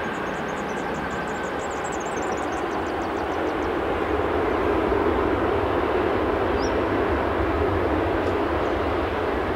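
Jet airliner engine noise on the runway, a steady roar that grows louder about halfway through.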